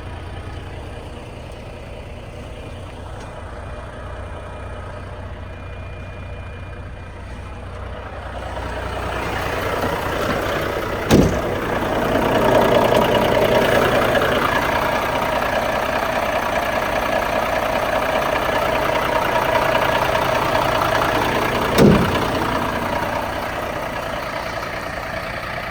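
Renault T440 truck's 11-litre six-cylinder diesel idling steadily, then running louder and higher-pitched from about a third of the way in, easing off near the end. Two sharp knocks stand out, one after about 11 seconds and one after about 22.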